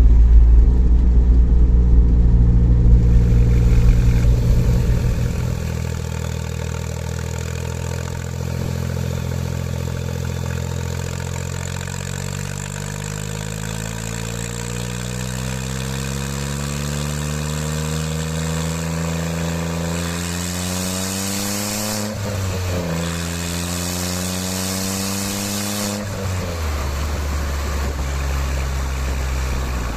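2003 Smart Roadster's three-cylinder engine through a straight-through exhaust fitted with a perforated baffle, running loud and low at first, then climbing steadily in revs for a long stretch. Near the end of the climb the revs drop suddenly, as at a gear change, rise again briefly, then fall back to a steadier note.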